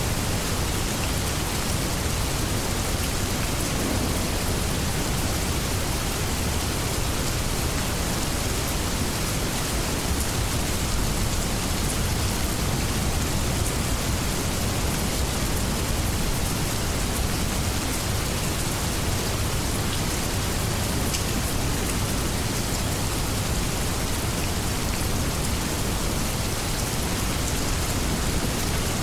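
Steady heavy rain falling, an even hiss with faint drop ticks and a low rumble underneath.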